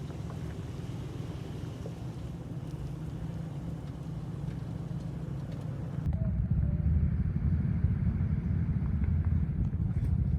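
V8 pickup truck driving off-road, a steady low engine and drivetrain rumble. About six seconds in, it cuts abruptly to a louder, deeper rumble.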